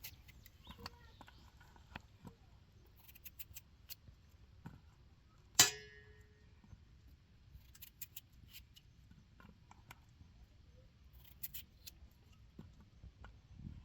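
Scattered light clicks and knocks, with one loud metallic clang about five and a half seconds in that rings briefly.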